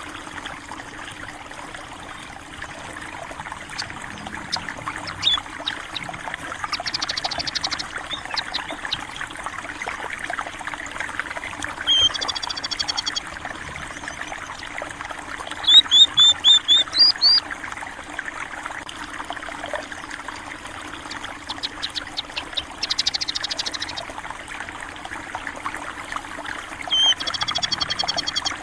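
Stream water trickling steadily, with sparrows chirping: short runs of quick, high chirps every few seconds, the loudest run about halfway through.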